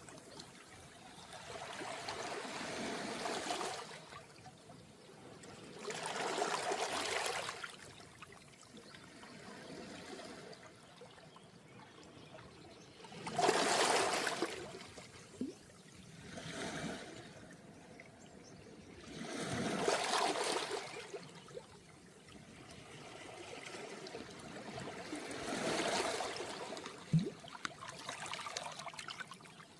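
Calm, small sea waves washing in and out over a beach of round pebbles, with a surge every few seconds and a trickling wash between surges. There is one short sharp click near the end.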